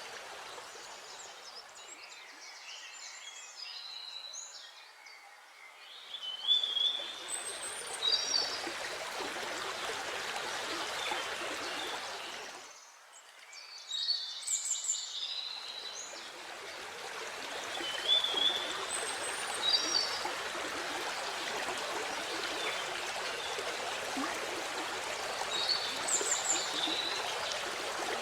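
Steady rush of falling water from a waterfall, with birds chirping now and then above it. The water sound thins out about five seconds in, then drops away almost completely for a moment about halfway through before coming back.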